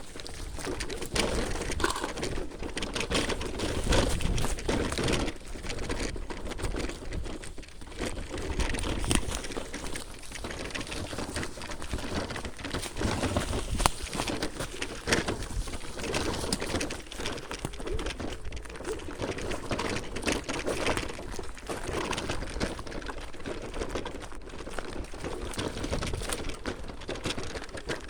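Kugoo Max Speed electric scooter rolling over a bumpy forest path: a continuous irregular rattle and clatter over a steady low rumble.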